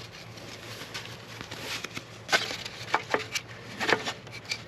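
Light clicks and scrapes of hands handling parts and tools, a few sharp ticks in the second half.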